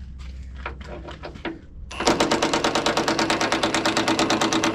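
A few light clicks and knocks, then about two seconds in a Milwaukee impact wrench starts hammering rapidly and steadily as it works a bolt loose.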